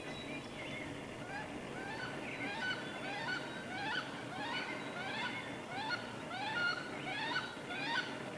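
Geese honking: a run of short, rising calls repeated about every half second to second, louder from about two seconds in.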